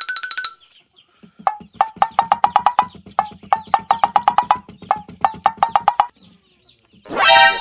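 Comedic sound-effect music: repeating phrases of quick, pitched clucking knocks like a wood block over a low hum, each phrase opening with a single stroke. A loud rising swoop comes in near the end.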